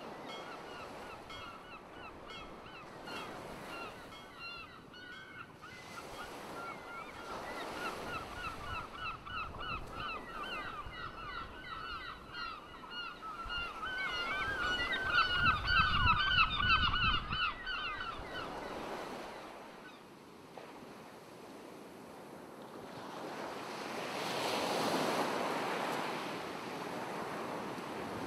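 Birds calling in rapid runs of short, repeated notes that build and grow louder, then stop about two-thirds of the way through. Surf swells as a wave washes in near the end.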